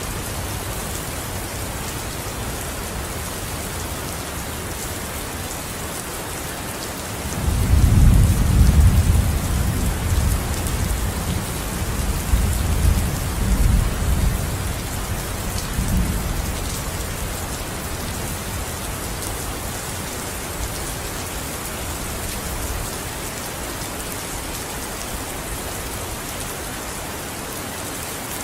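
Steady rain falling, with a roll of thunder about seven seconds in that rumbles low for around ten seconds before fading back under the rain.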